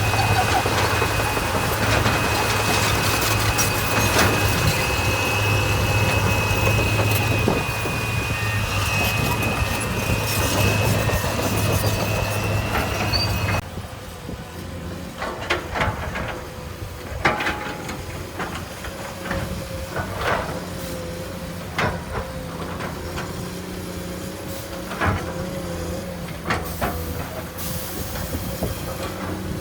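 Heavy earthmoving machinery: a diesel engine running loudly with a steady high whine. A little under halfway it changes abruptly to a quieter running engine with scattered clanks and knocks.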